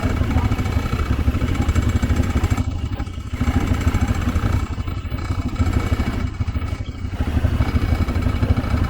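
ATV engine running while riding, with some clatter; the sound eases off briefly about three seconds in and again around five to seven seconds in.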